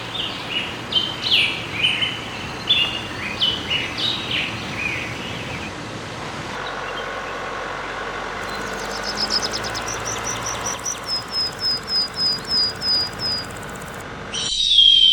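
Birds calling over a steady rush of waterfall water: a run of short, falling chirps in the first few seconds, then a long series of quick, high repeated notes, about three a second, later on.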